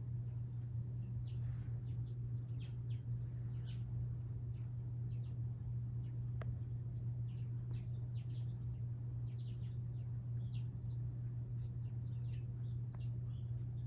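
Small birds chirping: many short, quick chirps that fall in pitch, overlapping and scattered throughout, over a steady low hum. A single sharp click a little before the middle.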